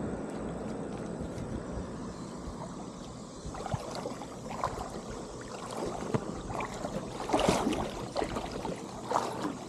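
Creek water splashing and sloshing in irregular bursts, starting a few seconds in and loudest about three-quarters of the way through, over a steady rush of wind or current at first.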